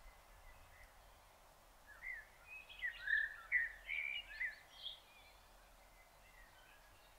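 A small songbird sings one quick phrase of varied chirps and gliding notes, starting about two seconds in and lasting about three seconds, over a steady faint outdoor hiss.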